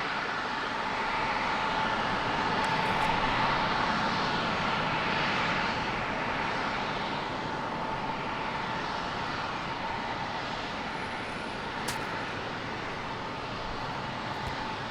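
Jet airliner engines at takeoff thrust: a steady rushing roar with a sustained whine near 1 kHz, swelling a few seconds in and then slowly fading as the aircraft moves away.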